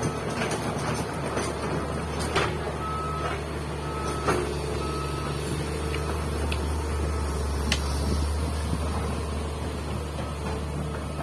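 Komatsu PC200 excavator's diesel engine running steadily, with its warning alarm beeping repeatedly in short beeps over the first half before it stops. A few sharp knocks come from the working machine.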